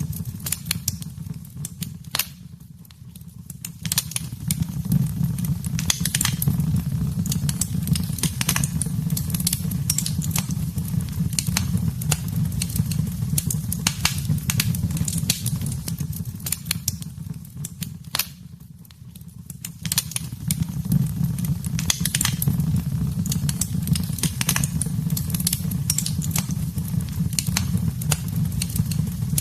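Wood fire crackling in a fireplace: many sharp, irregular pops and snaps over a steady low rumble of the flames. The sound briefly drops away twice, about three seconds in and again near the middle.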